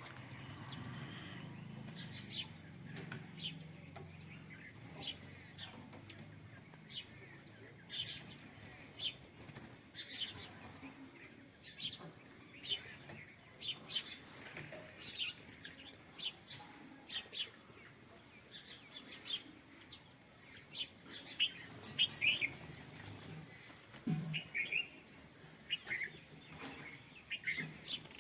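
Birds at a feeding spot chirping: many short, sharp, high chirps, a few a second and coming irregularly throughout, busiest in the last third.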